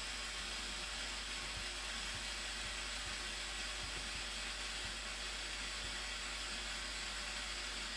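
Steady rush of the Blue Nile Falls: an even, unbroken hiss of falling water and spray.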